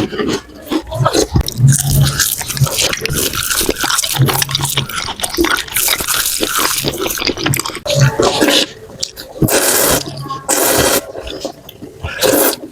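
Close-miked eating sounds of Samyang spicy noodles and tteokbokki: wet chewing and mouth clicks, with a few longer slurps in the second half.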